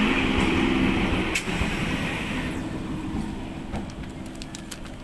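An electric multiple-unit local train passing close by, its wheels and coaches running over the rails in a loud, steady rumble with a low hum. About halfway through, the rumble drops off abruptly to a quieter, more distant train sound with scattered clicks from the wheels on the rails.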